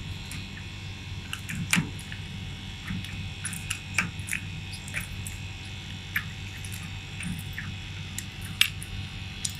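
Old Gree inverter air conditioner's outdoor unit running with a steady hum while a tool clicks and squeaks on the thin-pipe (liquid-line) service valve as it is turned shut. This is the first step of a pump-down that draws the R22 refrigerant back into the outdoor unit.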